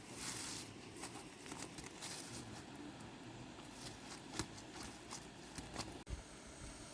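Soft rustling and scattered light clicks, with a short hissing rush near the start.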